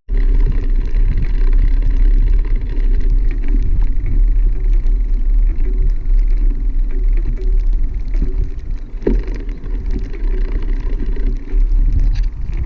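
Bicycle riding noise: heavy low wind rumble on the microphone and tyres running over rough ground, with one sharper knock about nine seconds in.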